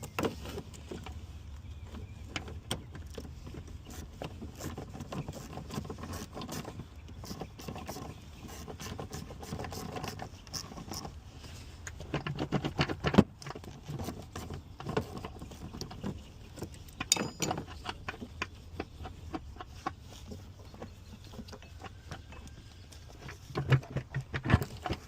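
Scattered clicks, taps and clinks of hands and tools working on parts in a car's engine bay, over a steady low hum.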